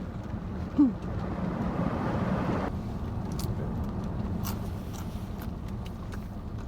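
Steady low hum of a car's idling engine heard inside the cabin, with a brief hum from a person about a second in. A hiss swells and stops suddenly near the middle, and a few faint clicks follow.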